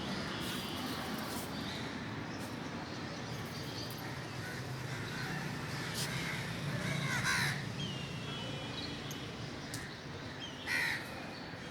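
A crow cawing twice, about seven and eleven seconds in, over a steady low background hum.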